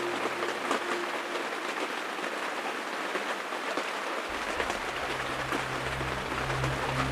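Steady rain falling, a dense patter of drops. About four seconds in, a low steady hum comes in under it.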